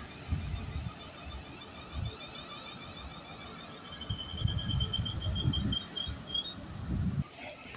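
Wind buffeting the microphone in irregular low gusts, with a faint rapid high-pitched pipping, about five pips a second, through the middle. A steady hiss sets in just before the end.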